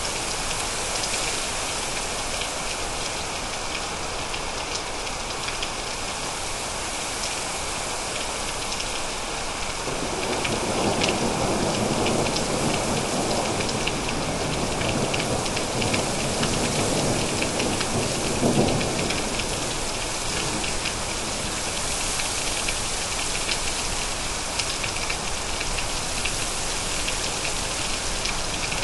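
Steady heavy rain falling, a continuous hiss with fine drop patter. About a third of the way in, a low rolling rumble of thunder rises, lasts around nine seconds, then fades back into the rain.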